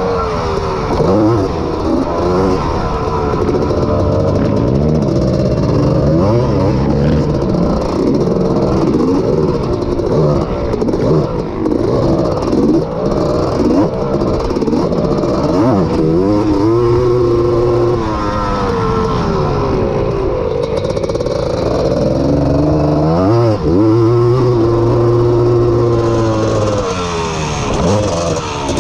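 Honda ATC250R three-wheeler's two-stroke single-cylinder engine ridden hard, revving up and dropping off again and again as the throttle is worked, with sharp dips and climbs in pitch.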